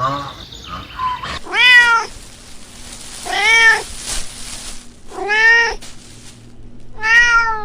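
A cat meowing four times, about two seconds apart, each meow a half-second call that rises and falls in pitch.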